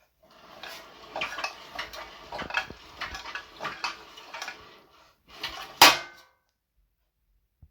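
Small metal objects clinking and rattling together, many quick knocks in a row, as when tools or parts are handled or rummaged through. Near the end there is a short final rattle with one loud sharp clack.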